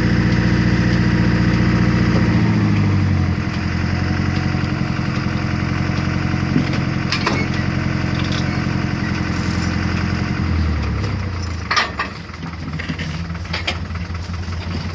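Engine of a farm machine running steadily, its pitch dropping about three seconds in and again near eleven seconds, with a few sharp knocks and rattles in the later part.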